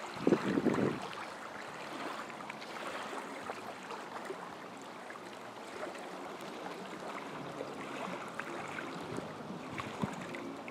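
Wind rushing over the microphone of a camera on a moving motorcycle, with the engine running faintly and steadily underneath; a louder gust of wind in the first second.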